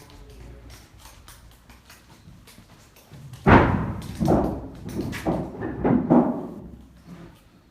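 A series of loud thumps: the first comes suddenly about halfway through, followed by four or five more over the next three seconds, each ringing on briefly before dying away.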